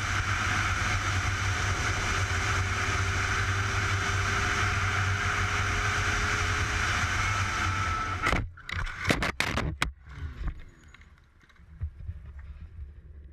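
Steady, loud road and engine noise of a moving car picked up by a dashcam. About eight seconds in it breaks into a quick string of sharp knocks, and after that it is much quieter.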